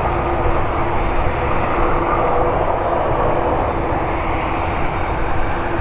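Boeing 787-9's twin GEnx-1B turbofans running steadily at low power as the airliner rolls out after landing: an even jet rumble with a faint steady hum.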